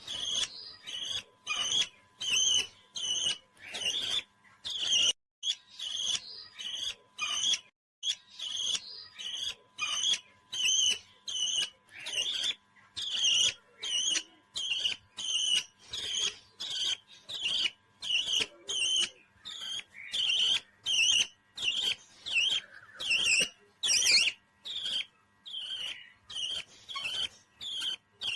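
Pet parrot calling in a long run of short, high-pitched chirps, repeated about twice a second.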